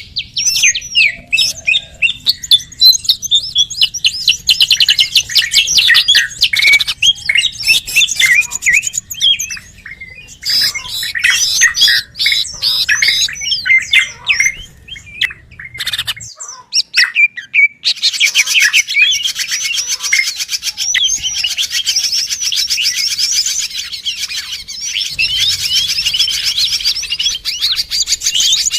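Many small birds chirping and twittering in a dense, overlapping chorus of high, quick notes, with a brief lull about halfway through before it resumes even thicker.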